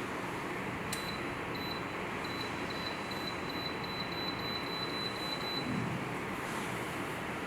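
Electric space heater's control panel beeping: a run of short high beeps that starts slowly and quickens to about four a second, then stops. It plays over the steady rush of the heater's fan.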